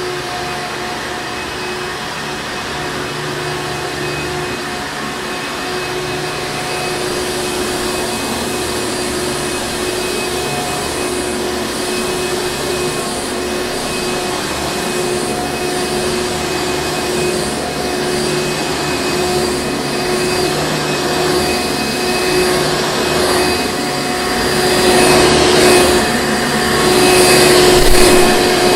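Hoover Encore Supreme upright vacuum cleaner running with a steady motor hum; it gets louder and uneven for the last few seconds.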